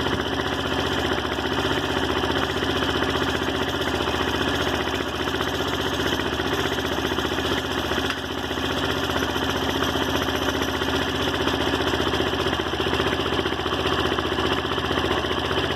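Daelim Roadwin motorcycle engine idling steadily.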